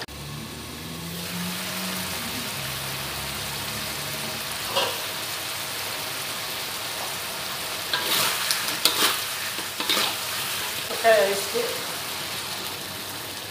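Chicken in soy-sauce gravy sizzling and simmering in a black wok, a steady hiss left to reduce with the water just added. A few sharp metallic clicks and knocks sound about five seconds in and again in a cluster between about eight and eleven seconds.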